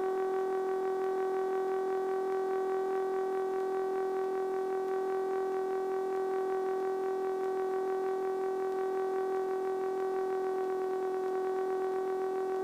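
A steady electronic whine: one unchanging tone with overtones in the aircraft's intercom and radio audio, holding the same pitch throughout.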